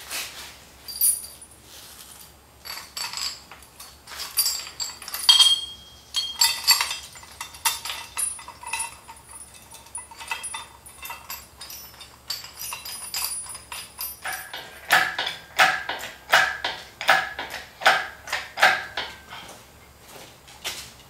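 Metal clanks, clinks and knocks of tools, bolts and engine-stand parts as an engine is worked onto an engine stand, some strikes ringing briefly. In the later part, evenly spaced knocks come about twice a second.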